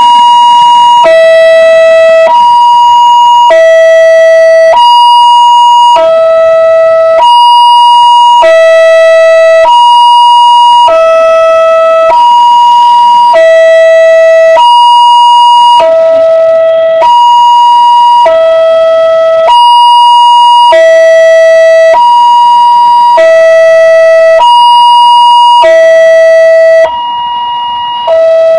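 Two-tone hi-lo siren alternating steadily between a low and a high note, each held for under a second. Loud throughout, dipping briefly near the end.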